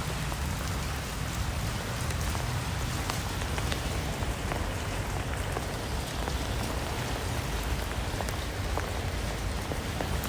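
Steady rain falling, with many scattered single drops ticking.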